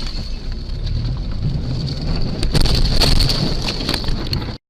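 Vehicle driving noise picked up by a dashcam: a steady low rumble with a thin high whine, a few knocks about two and a half to three seconds in, cutting off abruptly near the end.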